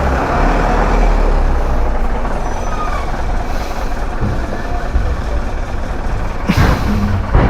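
Road vehicle noise: steady engine rumble and traffic. A sudden loud hiss comes about six and a half seconds in.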